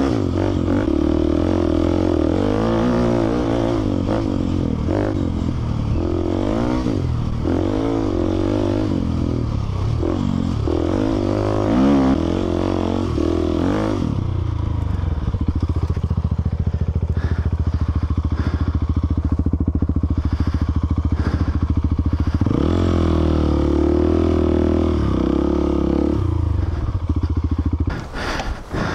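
Single-cylinder dual-sport motorcycle engine working through soft sand. For the first half the revs rise and fall with the throttle, then it runs more steadily, picks up again a little over twenty seconds in, and eases off near the end.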